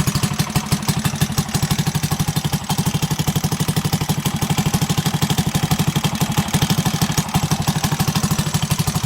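Single-cylinder four-stroke engine of a rebuilt Honda Chaly minibike idling steadily, with an even, fast putter.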